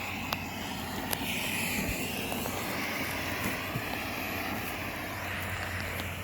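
Enola Gaye EG18 pull-pin smoke grenade hissing steadily at full output, with a steady low hum underneath.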